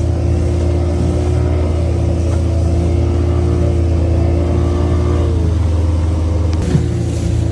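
Motorboat engine running steadily at a constant pitch, a loud even drone.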